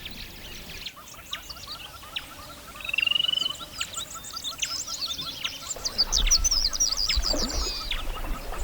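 Wild birds chirping and calling together, with a rapid trill about three seconds in and a burst of high, fast chirps around two-thirds of the way through. A low rumble comes in over the last couple of seconds.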